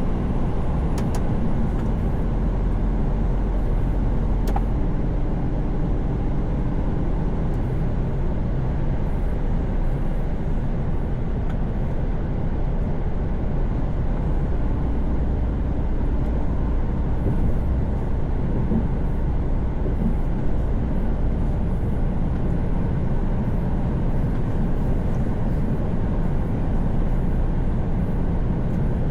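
Steady in-cab noise of a Mercedes-Benz Actros truck cruising on a motorway: engine and tyre-on-road rumble heard from the driver's seat.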